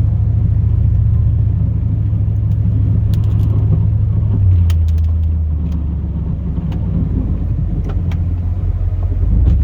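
2002 Chevrolet Silverado's 8.1L big-block V8 running steadily, a low drone heard inside the cab; its pitch drops about halfway through. A few light clicks come over it.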